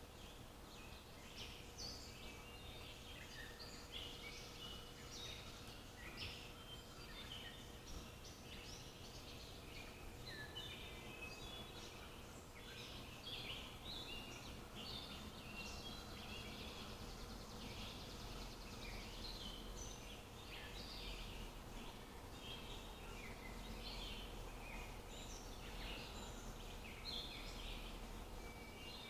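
Several songbirds singing and calling over one another in quick, short, high chirps, with no pause throughout. A faint steady hum lies underneath.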